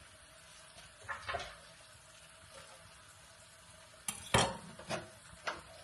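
A utensil knocking and scraping against a pot as sliced bell peppers are sautéed in hot oil: a couple of clinks about a second in, then a cluster of louder knocks near the end.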